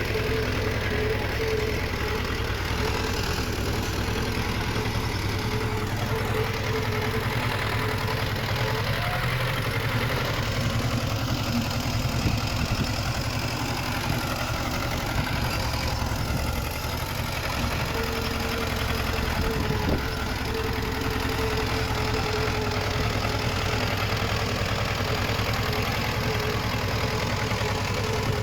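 Diesel engine of heavy earthmoving machinery running steadily, with a higher tone that comes and goes over the low hum. A single sharp tick sounds about two-thirds of the way through.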